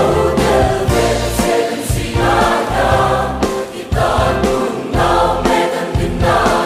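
A Christian choral song in Mizo, a choir singing over a band with a steady beat.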